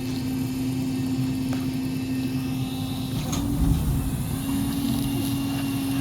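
Honey bees flying around an open hive, a steady, slightly wavering buzz at one pitch, with a few faint clicks.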